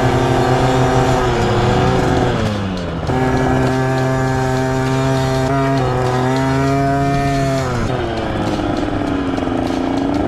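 Small two-stroke dirt bike engine, a Husqvarna TC50's 50cc single, running at high revs, with the pitch dropping twice as the throttle is eased off and then climbing back.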